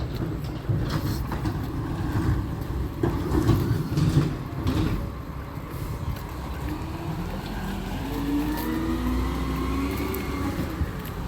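Recycling truck working: its engine running with irregular knocks and clatter in the first half, then a rising whine for the last few seconds.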